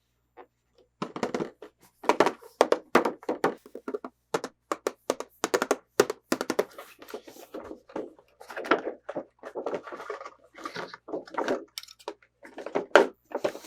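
Hands handling toys and their packaging close to the microphone: a quick, uneven run of knocks, taps and clicks with some rustling.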